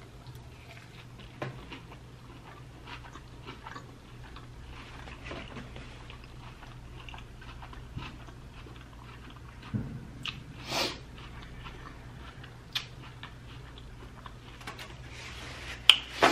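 Close-miked biting and chewing of a California roll coated in crushed Hot Cheetos: soft, wet chewing with many small clicks, a short hiss about eleven seconds in and a sharp click near the end.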